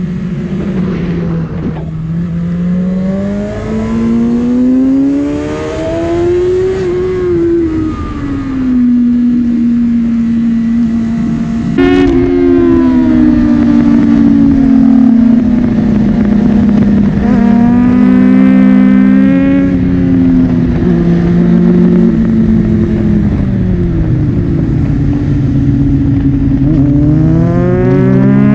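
Honda CBR600RR sports bike's inline-four engine at speed on track, its revs climbing and falling again and again through gear changes, with a sudden jump in revs about twelve seconds in.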